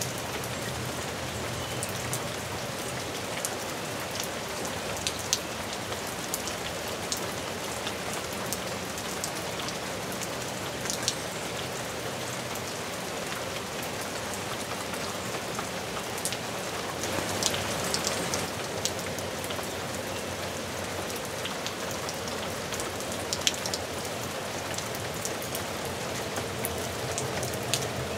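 Steady rain falling, with scattered louder drips and splats landing on nearby surfaces. The rain swells briefly a little past halfway through.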